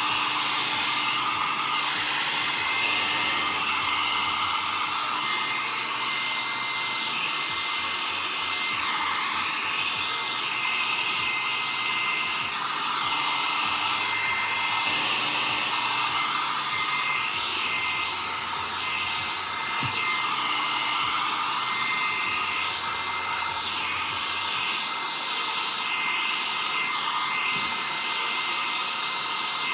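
BaByliss hair dryer running steadily, an even rush of blown air with a thin steady whistle. Its sound wavers slightly as it is moved through the hair.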